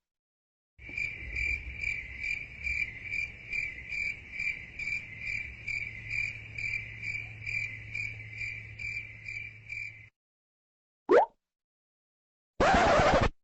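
Chirping crickets sound effect, the meme cue for awkward silence, pulsing about twice a second for some nine seconds over a low hum. It cuts off, and is followed by a short rising whoosh and, near the end, a loud burst of noise under a second long.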